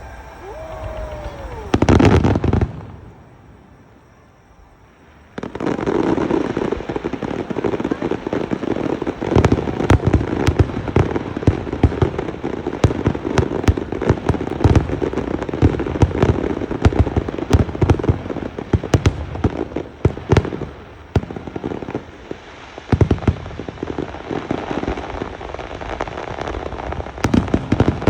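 Fireworks display: a short falling whistle, then a single loud burst about two seconds in. After a short lull, from about five seconds in, a dense run of rapid crackling pops and bangs follows, easing briefly about three quarters of the way through.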